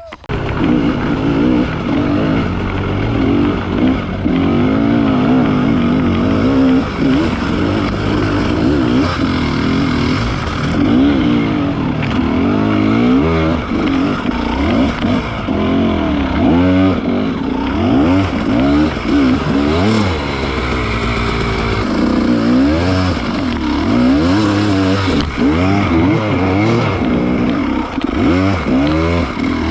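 Enduro motorcycle engine running hard on a trail, its pitch rising and falling again and again as the throttle is opened and closed.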